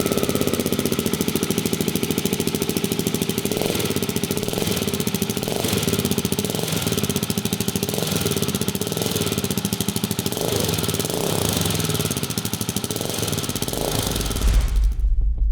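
KTM 690's single-cylinder LC4 four-stroke engine idling steadily through an aftermarket stainless-steel Sharon exhaust, with a few slight swells in revs.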